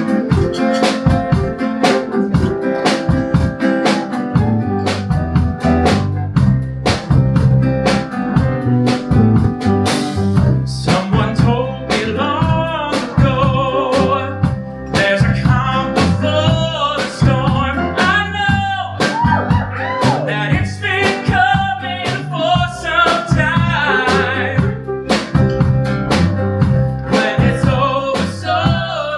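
Live band of guitar, piano, bass and drum kit playing a steady-beat folk-rock song. A singer's voice comes in about eleven seconds in.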